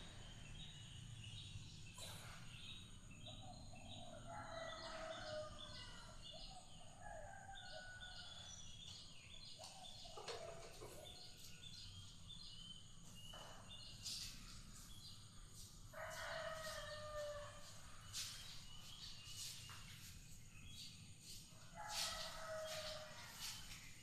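Faint rooster crowing about four times, with small birds chirping throughout.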